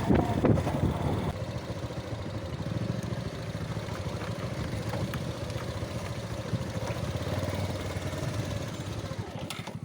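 Motorcycle engine running at low, steady revs, a fast even pulsing with no revving up or down.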